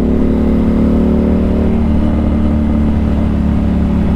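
Motorcycle engine running at a steady cruise, heard from a microphone inside the rider's helmet over a strong low rumble of wind and road noise; its note shifts briefly about two seconds in.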